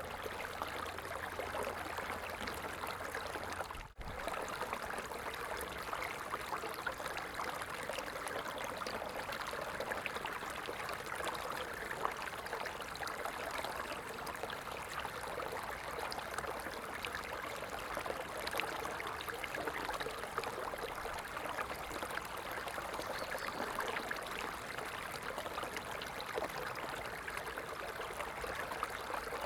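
A stream's water running steadily, with many small splashes and trickles through it. About four seconds in, the sound briefly dips.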